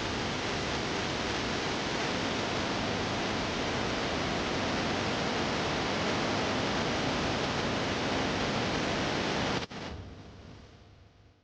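Steady rushing of a waterfall, cutting off sharply near the end and then fading away.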